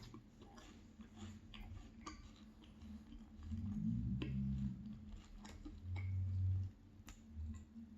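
Close-miked chewing of an apple and cherry pastry, full of small wet mouth clicks. Two louder low sounds come about halfway through and again a little later.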